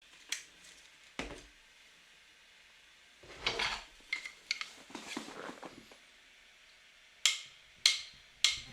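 Dishes and utensils being handled: scattered sharp clinks and knocks, with a busier stretch of scraping and clatter in the middle.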